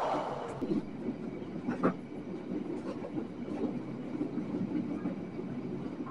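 Passenger train wheels running on the rails, heard from the rear of the train as it leaves a tunnel: the loud rushing noise of the tunnel falls away at the start, leaving a steady rumble with sharp clacks as the wheels cross the points, the loudest about two seconds in.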